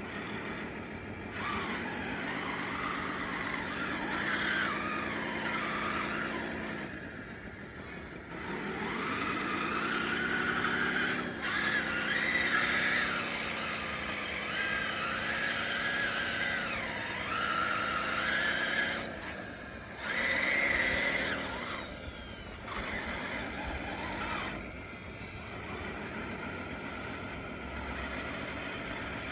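Motors of a DXR2 RC hydraulic bulldozer whining as it works. The pitch rises and falls with the load, with short drops about seven, nineteen and twenty-two seconds in.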